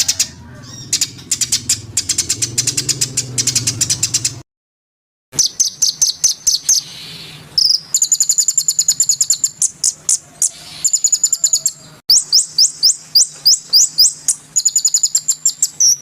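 Songbirds singing in fast runs of high, repeated chirps and trills. The song breaks off briefly about four and a half seconds in, and the pattern changes abruptly about twelve seconds in, like separate recordings joined end to end.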